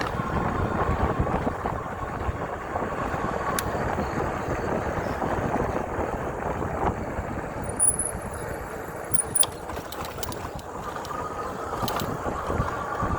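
Steady riding noise from an e-bike on wet pavement: tyre hiss and wind on the microphone, with a few light clicks and a brief high squeak about two-thirds of the way through.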